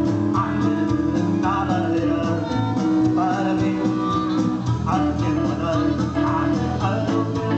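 A blues band playing: guitar and a melody line over a steady drum beat.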